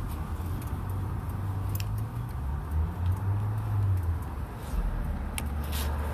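Motorcycle engine running with a low, steady rumble. The pitch drops a little about five seconds in, with a few faint ticks.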